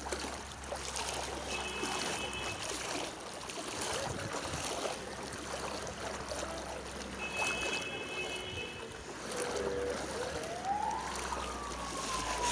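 Steady rush of floodwater and vehicle noise. Twice a brief high beeping tone sounds, and near the end a tone rises and then slowly falls.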